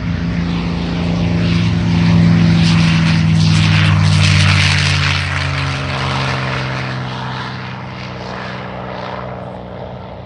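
P-51 Mustang's Rolls-Royce Merlin V-12 engine at full power on take-off. It swells to a peak a few seconds in, then fades as the plane pulls away, its pitch dropping slightly as it passes.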